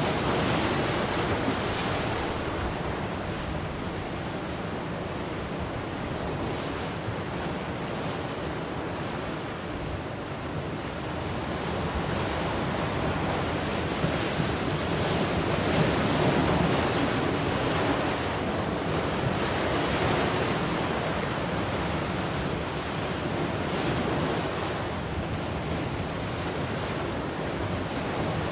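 Ocean surf: waves breaking and washing in, rising and falling slowly, loudest around the middle.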